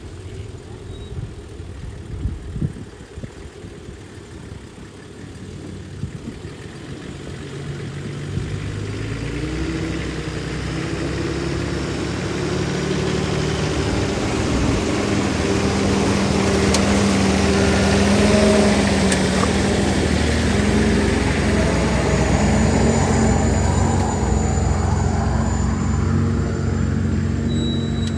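Four-wheel-drive vehicle's engine running in low range on a rough track, getting louder over the first half and then holding steady.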